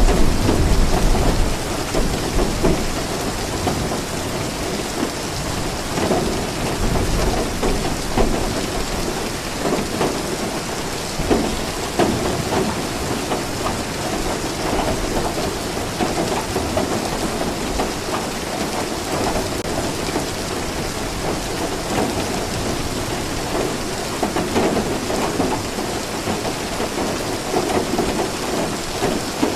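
Steady heavy rain falling, an even hiss with a low rumble that swells in the first few seconds and then settles.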